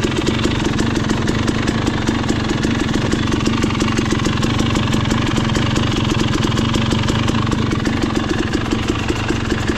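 Dirt bike engine running at steady revs, a rapid even beat of firing pulses with no revving up or down.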